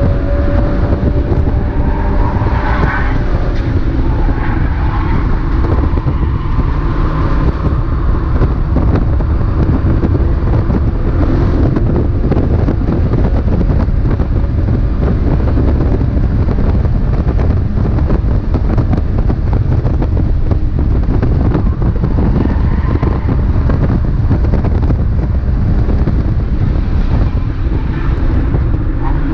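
Mazda MX-5 race car's four-cylinder engine running hard, heard from on board through loud wind and road noise. The engine note rises and falls as it is driven.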